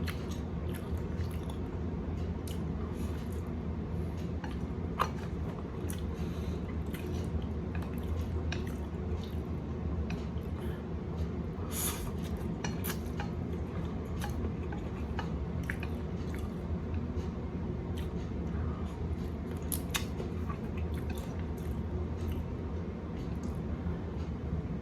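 Close chewing of Indomie pancit canton instant fried noodles, with scattered light clicks of utensils on a plate or bowl. A steady low hum runs underneath.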